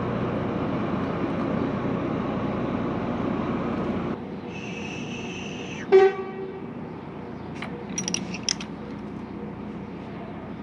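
Steady background noise, then a brief high horn-like tone. After it comes a sharp metallic clink that rings briefly, and a few lighter clinks about two seconds later.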